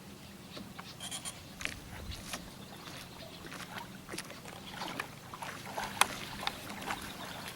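Small wavelets lapping at the water's edge: irregular light plinks and small splashes, with one sharper splash about six seconds in, over a faint steady low hum.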